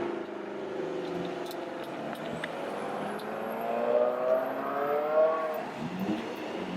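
Car engines driving past, one rising in pitch as it accelerates through the middle, with a faint high whine climbing over the whole stretch.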